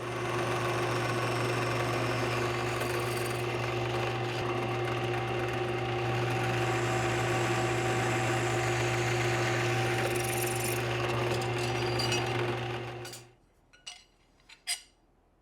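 A drill running steadily as it bores holes in a steel plane sole, with a constant motor hum, then winding down about 13 seconds in. A few faint clicks follow.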